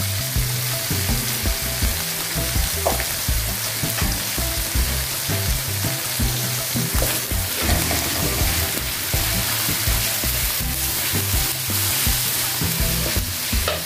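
Minced chicken, garlic, chillies and leek stalks sizzling steadily in olive oil in a wok, with a few scrapes of a spatula stirring them near the end.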